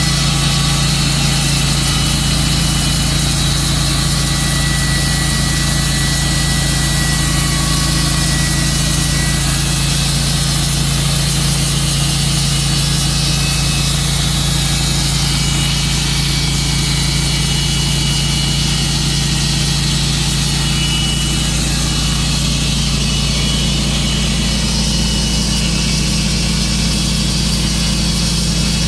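Tru-Cut sawmill's engine running steadily, with a slight change in its higher sounds about two-thirds of the way through.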